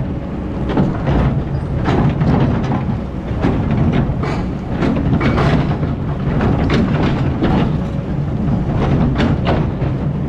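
Excavator's diesel engine running steadily, with irregular knocks and clatter from the machine working in sand and stones.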